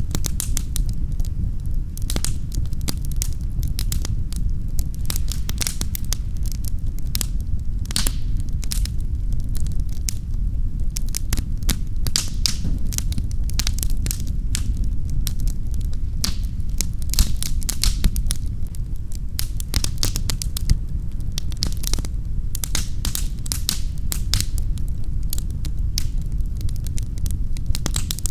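Wood fire crackling in a fireplace: dense, irregular pops and snaps over a steady low rumble of flame.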